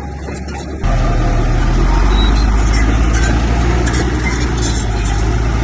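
Heavy diesel engine of earthmoving machinery running with a steady low rumble, which gets abruptly louder and deeper about a second in and stays that way.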